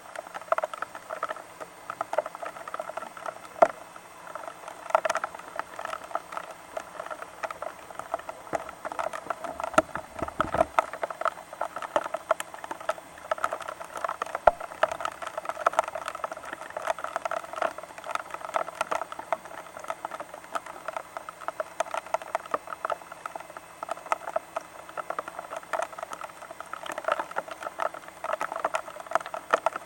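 Rain pattering steadily in dense, irregular drops striking a surface, with a brief low rumble about ten seconds in.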